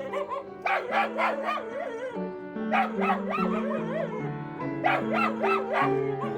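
A dog barking in three short bouts over background music with held low notes.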